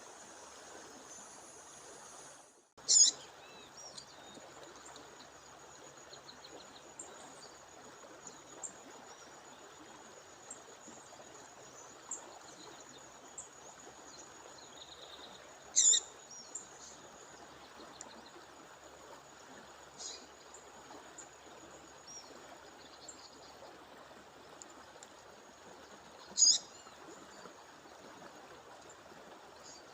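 Running stream water at a waterfall, with a female bird giving three short, loud, high calls spaced about ten seconds apart and fainter chirps in between. A steady thin high tone runs underneath.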